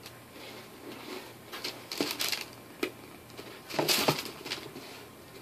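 Handling noise from a sneaker being turned over in the hands: scattered rustles and light knocks, a small cluster about two seconds in and another near four seconds.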